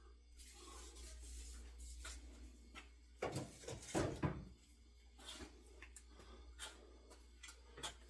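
Wooden axe handles being handled: faint rubbing and shuffling, with a few sharp wooden knocks and clunks about three to four seconds in.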